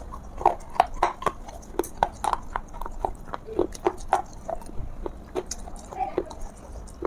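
Chewing a mouthful of water-soaked clay pot (matka) close to the microphone: irregular soft crunches, about two a second.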